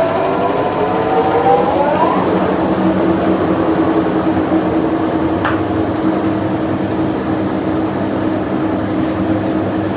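Factory machinery running loudly, with a whine that rises in pitch over the first two seconds as a machine speeds up, then settles into a steady hum.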